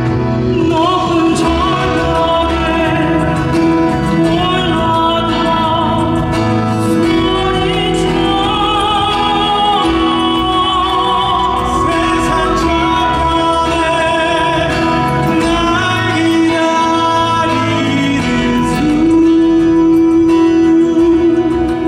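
Live concert performance: classical-style singing with vibrato over instrumental accompaniment.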